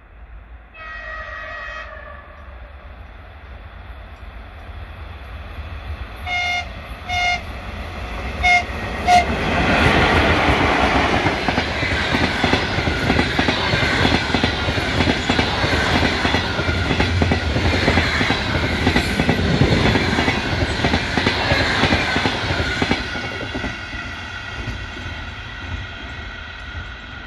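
ChS7 electric locomotive sounds its horn in greeting: one long blast about a second in, then four short blasts in two pairs between about six and nine seconds. The locomotive and passenger coaches then pass close by, loud, with a rapid clatter of wheels over rail joints that fades as the train recedes.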